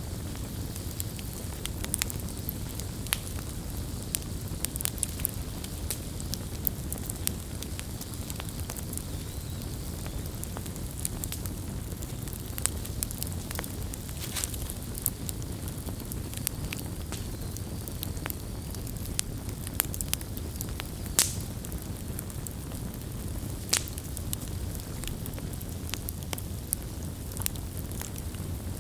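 Wood bonfire burning: a steady low rumble of flames with irregular sharp crackles and pops from the burning wood, a few of them louder.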